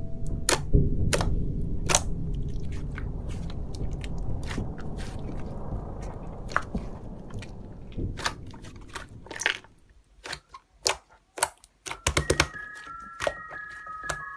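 Slime being squished and pressed by hand, giving a dense run of sticky clicks and pops. About ten seconds in the squishing thins to a few separate pops, and a chiming background tune comes in near the end.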